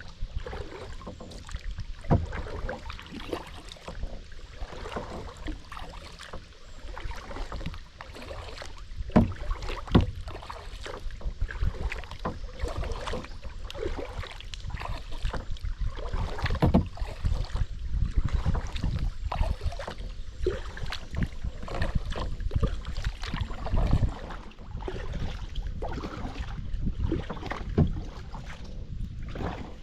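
Kayak paddling: irregular paddle strokes splashing in the water and knocking against the hull, over a steady low rumble.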